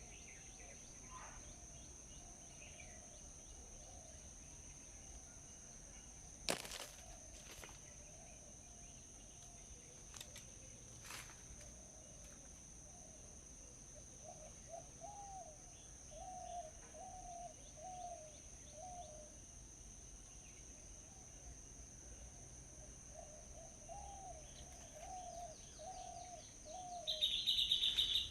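Birds calling: a low call repeated in two runs of about five notes each, then loud high chirping near the end, over a steady high insect drone. A single sharp click comes about six seconds in.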